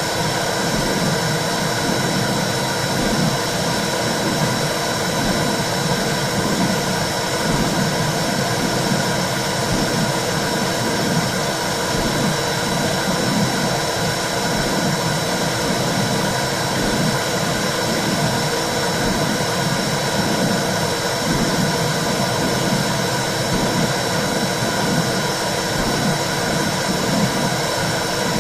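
Womb sound for calming a baby: a steady whooshing noise with a low, uneven pulsing underneath and a faint high steady tone.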